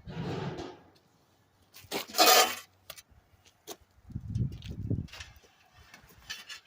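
Wood chips being sifted through a quarter-inch screen: a few separate bursts of rustling clatter, the loudest about two seconds in, and a duller, lower shuffle about four seconds in.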